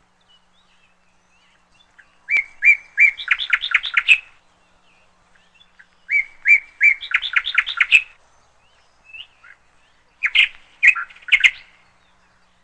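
A songbird singing three similar song phrases about four seconds apart. Each phrase starts with a few evenly spaced notes and breaks into a quick run of notes.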